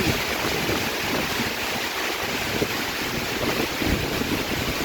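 Strong storm wind and heavy rain: a steady rushing hiss with uneven low buffeting of the wind on the microphone.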